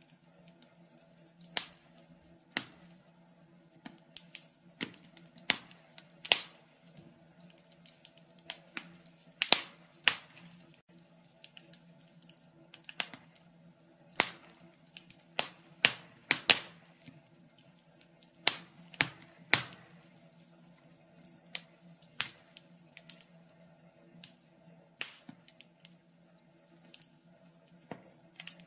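Log fire crackling, with irregular sharp pops and snaps of uneven loudness, one to three a second.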